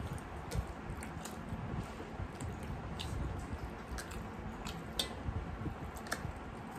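Close-up eating sounds of rice and chicken curry eaten by hand: wet chewing and squishing, with scattered short sharp clicks of lip smacks and fingers on steel plates.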